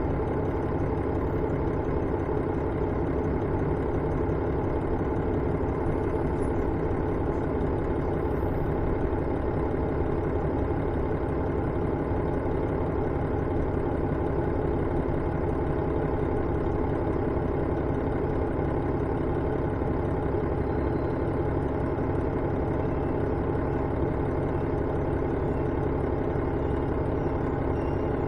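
Diesel railcar engine of a KiHa 112 heard inside the car, running at a steady idle with an even hum and no change in pitch. The train is drifting or stopping on the approach to a station with the engine off power.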